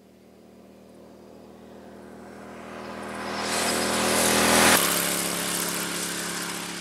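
Honda Shadow 600 V-twin motorcycle riding past: its engine note grows steadily louder, drops in pitch as it goes by nearly five seconds in, then fades away.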